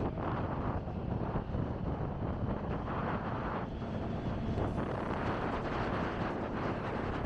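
Wind rushing and buffeting over the microphone of a moving motorcycle, a steady dense roar with the road and engine noise blended in.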